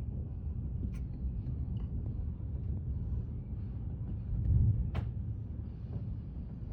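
Low, uneven rumble of a severe thunderstorm, wind and thunder, swelling about four and a half seconds in, with two sharp clicks.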